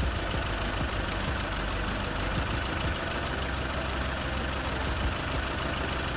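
Four-cylinder petrol car engine idling steadily with a misfire from one dead cylinder, while its ignition coils are unplugged one at a time to find the dead one.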